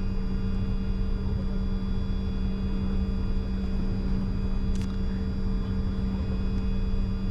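Steady cockpit noise of a Bombardier Challenger 605 on the ground with its twin GE CF34 turbofans at idle: a low rumble under a steady hum. A single short click almost five seconds in.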